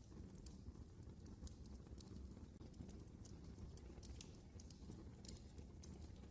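Wood fire burning in a fireplace: a faint low rumble of the flames with irregular small crackles and pops from the burning wood.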